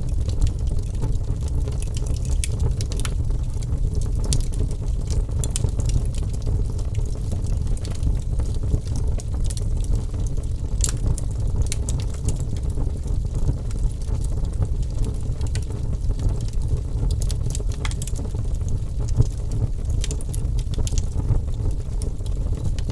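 Wood fire burning: a steady low rumble of flames with scattered sharp crackles and pops.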